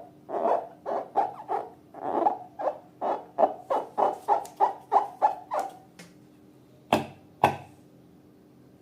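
Slime being worked by hand: a quick run of wet squelching air pops, about three a second, for some six seconds. Two sharp clicks follow about seven seconds in.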